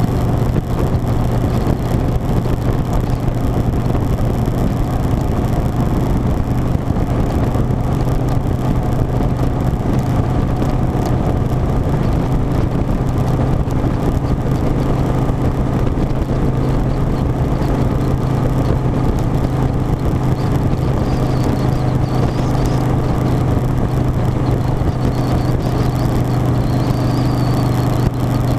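Harley-Davidson Softail Standard's V-twin engine running steadily at an even cruising speed while riding, with no change in revs.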